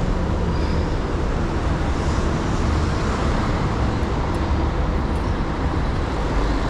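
Steady road noise while cycling in city traffic: a continuous rush of wind and passing vehicles, heaviest in a deep low rumble, with no single event standing out.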